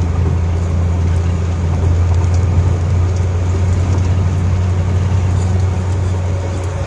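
Steady low drone of a vehicle driving, engine and road noise heard from inside the cabin; it falls off right at the end.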